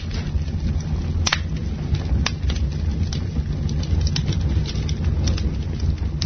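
Campfire crackling: scattered wood pops and snaps, two sharper ones about a second and two seconds in and a flurry of small ones near the middle, over a steady low rumble.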